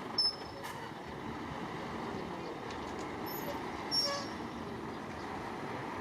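Heavy construction machinery running steadily, with two brief sharp sounds, one near the start and one about four seconds in.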